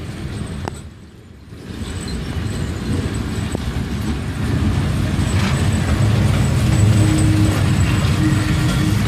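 Historic passenger train hauled by a vintage electric locomotive passing close by. Its low rumble builds over the first few seconds and stays loud as the old carriages roll past, with a steady tone in it near the end.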